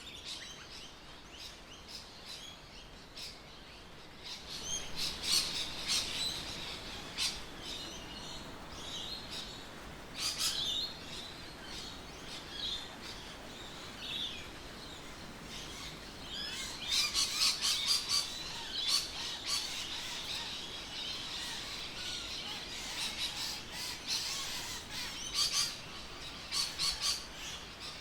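Birds chirping and calling, with many short, sharp calls that come in busy clusters and quieter gaps between.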